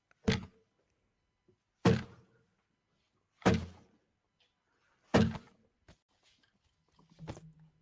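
Four gunshots, evenly spaced about one and a half seconds apart: a sound effect in the song's soundtrack, heard through playback speakers in the room.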